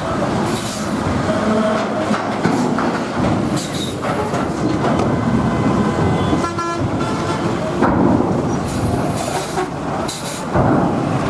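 Heavy vehicle traffic, buses and trucks, rumbling and clattering steadily. A short horn blast comes about six and a half seconds in.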